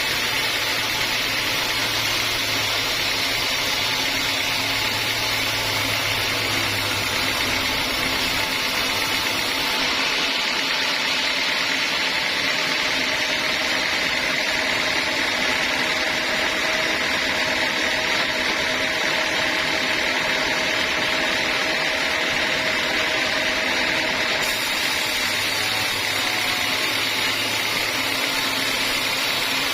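A homemade band sawmill runs steadily, with its blade cutting through a teak log in a continuous hiss. A low motor hum fades out about eight seconds in and comes back near the end.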